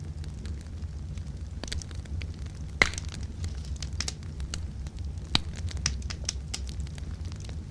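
Wood campfire burning: scattered crackles and sharp pops over a low steady rumble, the loudest pop a little under three seconds in.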